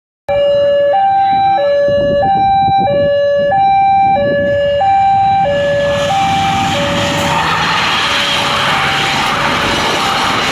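Railway level-crossing warning alarm sounding a steady high–low two-tone signal, each tone held under a second. From about halfway the noise of an approaching train swells and grows louder than the alarm.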